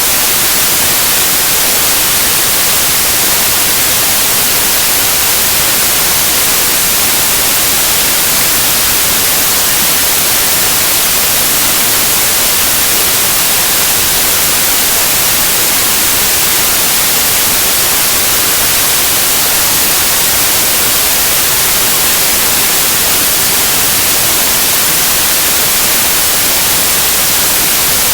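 Synthetic white noise: a steady, even hiss, strongest in the high frequencies, with no change in level.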